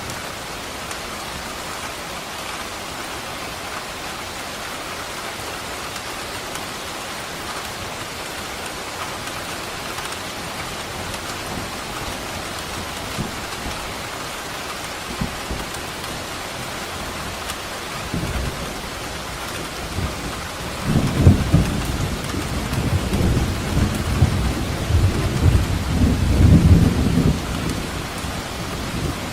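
Steady heavy rain hissing, with a long crackling roll of thunder that starts faintly about two-thirds of the way in, grows loud and rumbling for several seconds, then fades near the end.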